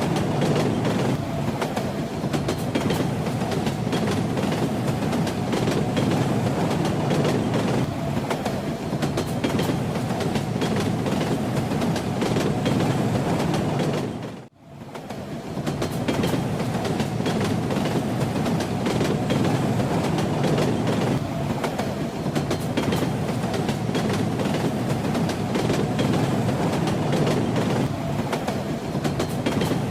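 Moving train: a steady rumble with the clatter of wheels over the rails. About halfway through, the sound fades out for a moment and then comes back.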